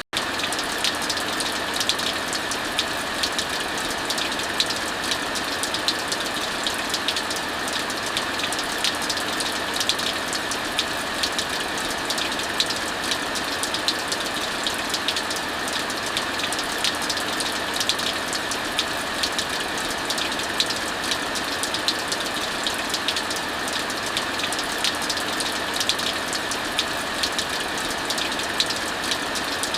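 Heavy rain falling steadily, mixed with a fireplace fire crackling: a constant rushing hiss dotted with frequent small pops.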